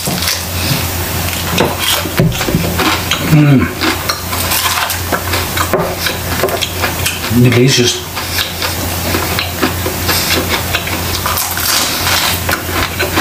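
Close-miked chewing and crunching of crispy fried chicken: many crisp crackles from the breaded skin, mixed with wet mouth sounds.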